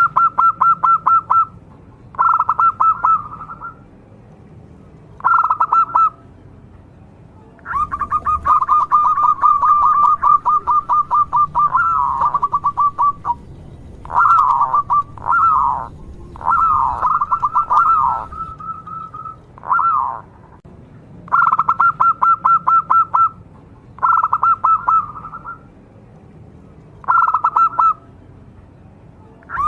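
Zebra dove (perkutut) cooing: rapid staccato trills of short notes, repeated in bursts of a second or two with short pauses between them. Two longer runs come in the middle, some with notes bending downward in pitch.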